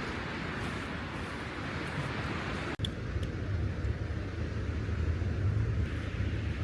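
Steady outdoor noise of a rainy seashore. About three seconds in it cuts off abruptly and turns into a deeper, rumbling noise.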